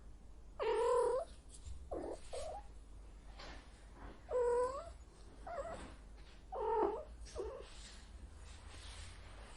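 A cat meowing repeatedly: three loud, drawn-out calls (about a second in, about four and a half seconds in, and near seven seconds), with shorter, softer meows between them.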